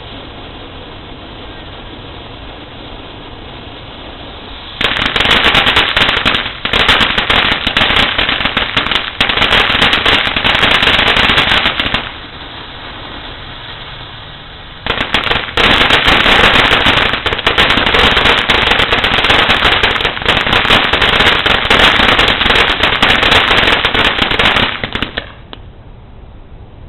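Firecrackers going off in two long runs of rapid, dense popping, about five seconds in and again about fifteen seconds in, with a short lull between. Before the first run there is a steady hiss, and the popping stops suddenly near the end.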